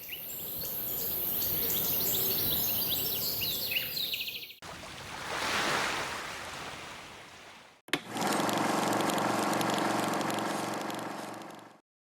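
Birds chirping over outdoor background noise and a steady high hiss, cut off abruptly; then a rush of noise that swells and fades; then, after a sudden start, a steady pitched hum with a fine pulsing that stops near the end.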